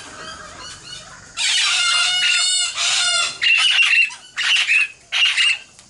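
A flock of princess parrots calling loudly: a dense burst of many overlapping harsh calls, then several single screeches in quick succession. They are alarm calls, which the keeper takes for a reaction to a cat prowling nearby.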